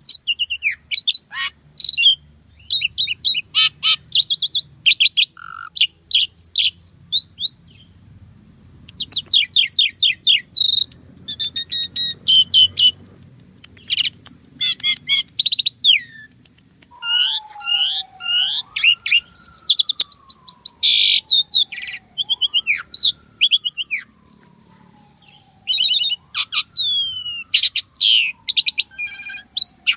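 Asian pied starling (jalak suren) singing a busy, varied jumble of chirps, whistles and rapid trills. From a little past halfway, a lower whistle runs underneath, slowly sliding down and back up three times.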